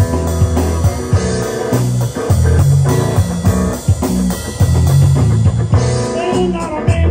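Rock music played by a band: guitar over a bass line and drum kit, with a gliding guitar line near the end.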